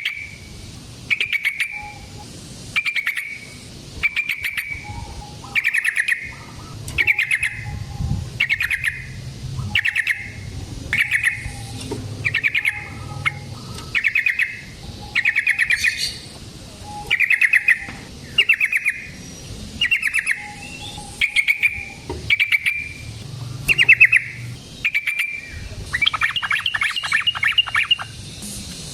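Yellow-vented bulbul (trucukan) singing: a short, bubbling phrase repeated about once a second, breaking into a faster, continuous chatter near the end.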